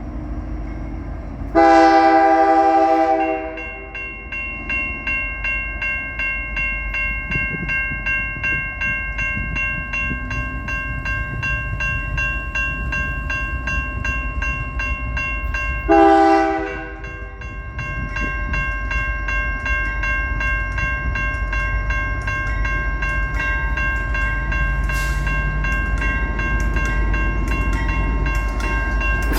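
Freight train locomotive horn sounding two blasts, the first about two seconds long near the start and a shorter one about halfway through, over the low rumble of the train. Between and after the blasts a steady ringing of several tones carries on.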